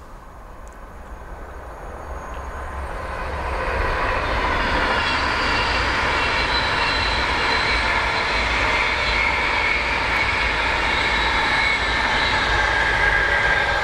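A train approaching on the main line, growing louder over about four seconds, then passing close by with a steady rushing noise and a faint whine.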